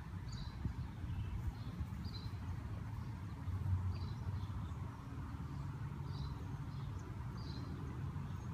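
A small bird chirping over and over, short high chirps about once a second, over a steady low rumble outdoors.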